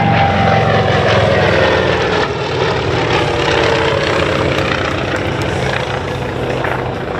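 Radial engine and propeller of a World War II Grumman fighter making a low pass, loud, with its pitch sliding steadily down as it goes by.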